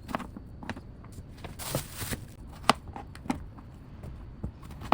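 Knife cutting a bottle gourd (lau) into pieces on a board: scattered light knocks and cuts at irregular spacing, with a brief rustling hiss about two seconds in.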